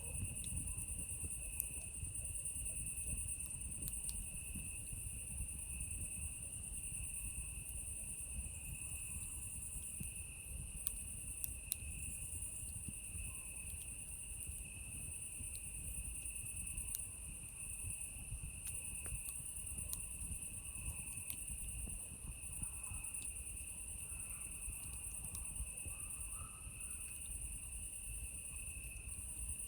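A steady chorus of night insects, two shrill high tones going on without a break, over a campfire crackling with scattered sharp pops and a low hiss.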